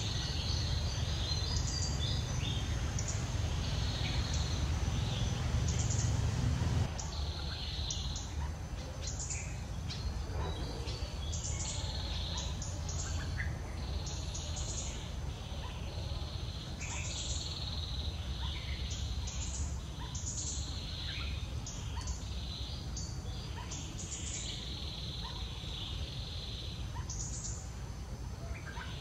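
Small birds chirping, short high calls repeating every second or so, over a low rumble that drops away about seven seconds in; a faint steady high tone runs underneath.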